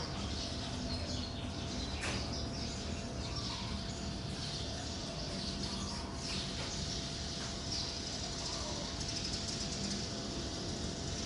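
Small birds chirping over a steady low background noise, with a couple of brief clicks.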